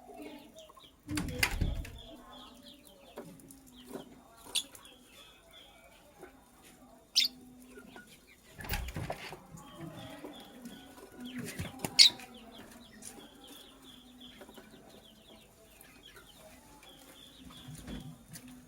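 Lovebirds moving in a cage: several sharp flaps or knocks spaced a few seconds apart, the loudest about 12 seconds in, with faint high chirping between them.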